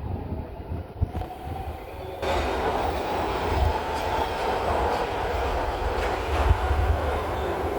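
A MARTA rapid-transit train running past, with a loud, steady rolling noise that sets in about two seconds in and irregular low thumps of the wheels underneath.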